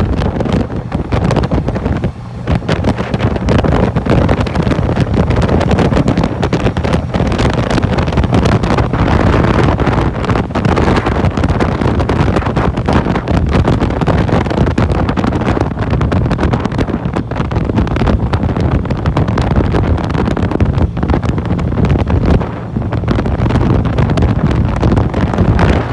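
Wind buffeting the microphone of a motorcycle at highway speed, with the bike's engine and road noise running underneath. The level dips briefly about two seconds in and again near the end.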